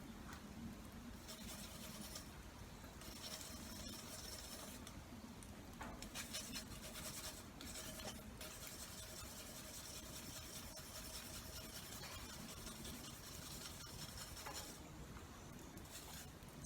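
Faint, steady rubbing and scraping, as in hand-cleaning or filing a tool, starting about a second in, pausing briefly a few times and stopping near the end.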